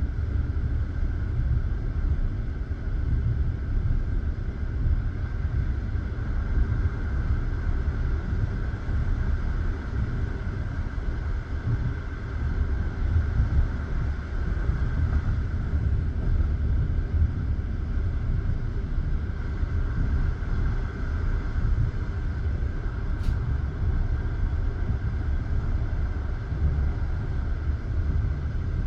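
Passenger railway carriage rolling along the track, its wheels on the rails making a steady low rumble with no distinct rhythm of rail-joint clacks.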